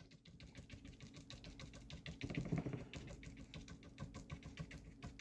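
Faint, rapid tapping of a paintbrush dabbing gouache onto paper, several light taps a second, as foliage for a bush is stippled in.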